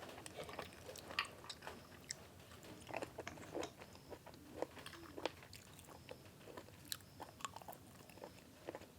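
A person chewing crunchy boiled field-snail meat close to the microphone: faint, irregular crunches and wet mouth clicks.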